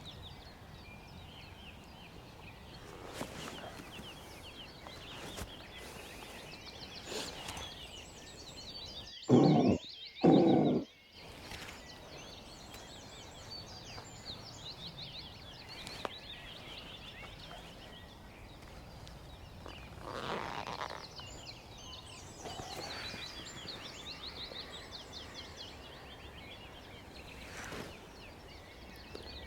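Two short, deep grunts a second apart, about nine seconds in: a deer call imitating a fallow buck's rutting groan, sounded to lure fallow deer in. Faint birdsong goes on behind.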